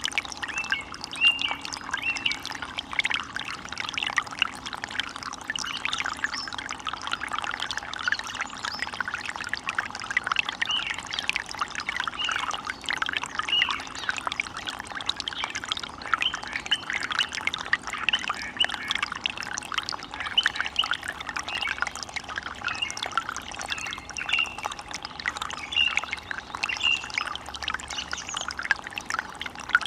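Water running and splashing steadily in a small forest stream, with short bird chirps over it.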